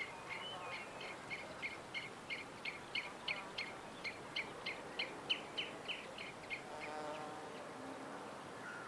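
A bird repeating a short, sharp chirp about three times a second for some six seconds, then stopping. A fainter, lower call follows near the end.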